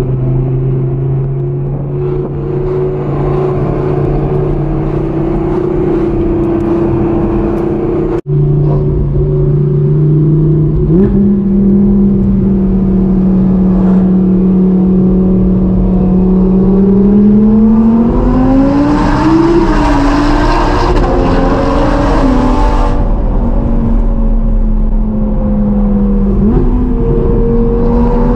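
A sports car's engine running steadily on the move, its drone stepping up in pitch about eleven seconds in. Later it revs up and drops back with a gear change about twenty seconds in, and it rises again near the end.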